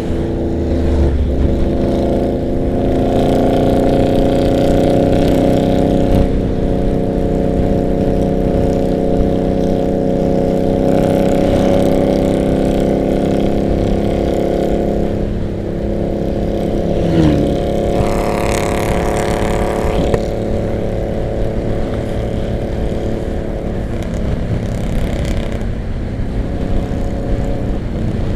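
Harley-Davidson V-twin motorcycles cruising on the road, their engines running at a steady speed with a few changes in throttle, mixed with wind noise on the rider's microphone.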